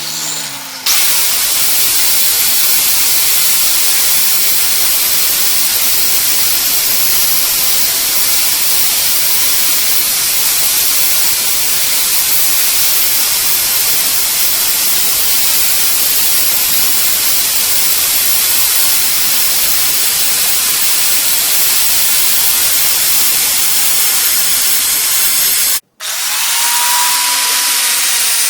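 Stick-welding arc burning a 7018 electrode: a steady crackling hiss that starts abruptly and runs for about 25 seconds before it cuts off sharply. A different sound with a steady whine follows in the last couple of seconds.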